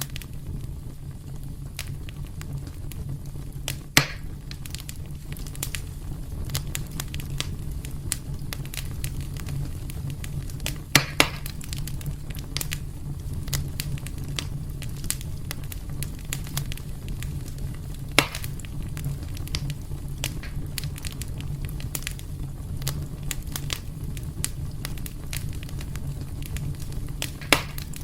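Wood fire burning in a fireplace: a steady low rumble of flames with constant small crackles and a few louder sharp pops, the loudest about 4, 11, 18 and 27 seconds in.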